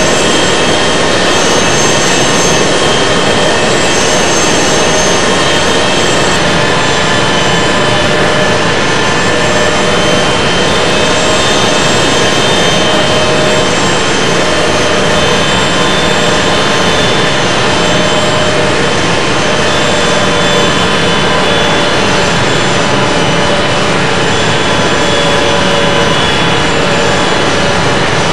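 Jet engine and airflow noise heard inside an Airbus A380's cabin: a loud, steady rushing roar with faint thin tones drifting in and out.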